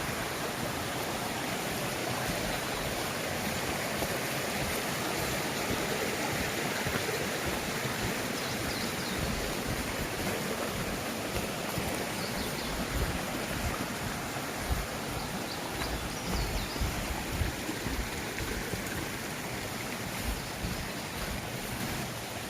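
Mountain valley stream rushing steadily over rocks after rain, an even wash of water noise. A few low bumps come through in the second half.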